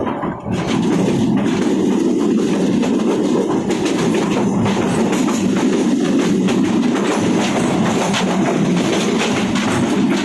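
Train running along the track: a steady rumble of the railway cars with the clatter of wheels over rail joints.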